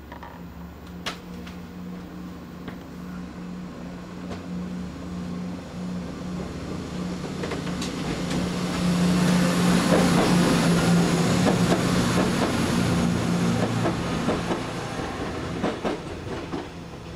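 Diesel multiple unit passing close by: its engine hum builds as it approaches and is loudest while the carriages go past, with wheels clicking over the rail joints, then fades as it moves away.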